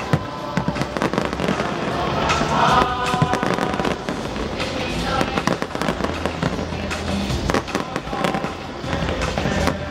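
Aerial fireworks bursting in rapid succession, a dense run of bangs and crackles, with music playing underneath.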